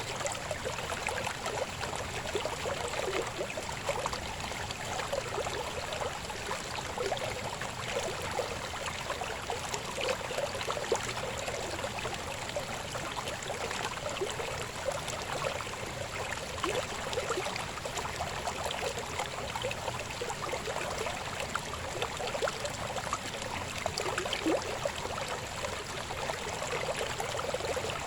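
Shallow river babbling steadily over rocks: a continuous wash of water with many small gurgles and splashes.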